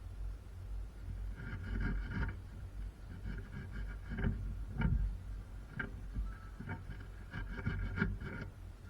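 Irregular clusters of metallic clinks and knocks, some briefly ringing, as of tools or car parts being handled, over a steady low rumble.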